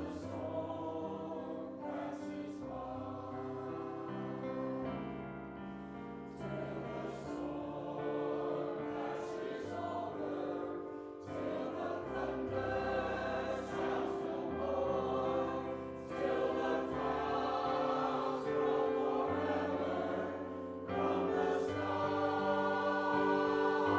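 A choir singing a slow piece in held chords, the harmony changing every second or two.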